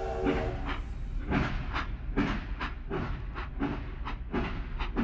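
Heritage railway passenger coaches rolling past, their wheels clicking over the rail joints in a rhythmic clickety-clack over a low rumble. The chord of a steam whistle dies away about half a second in.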